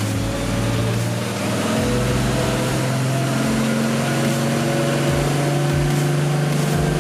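Nissan R32 Skyline GT-R's RB26 straight-six, fitted with a single Precision 6266 turbo, running under load on a chassis dyno at a nearly steady speed, its pitch creeping up slightly.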